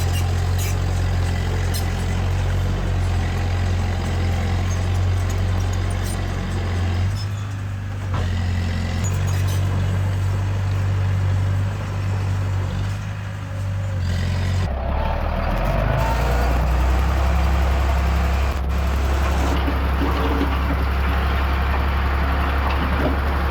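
Heavy-equipment diesel engine running steadily. It dips briefly twice, then shifts to a deeper, slightly louder drone with added rumble about two-thirds of the way through.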